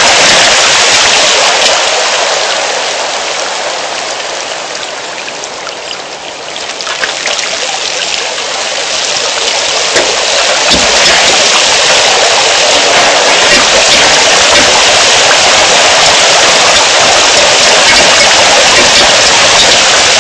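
Heavy rain pouring down in a loud, steady hiss. It eases for a few seconds early on, then comes back as hard as before.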